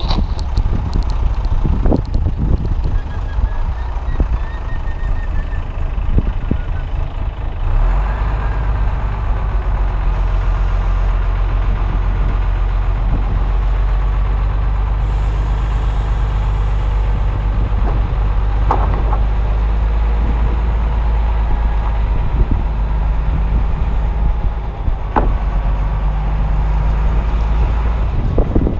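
A heavy vehicle engine running steadily. It picks up to a stronger, even drone about eight seconds in and eases off near the end, with wind buffeting the microphone and a few sharp knocks.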